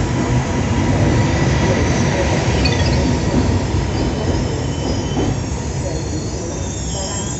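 Passenger train rolling through the station with a steady low rumble, its wheels squealing in thin high tones that come and go, more near the end.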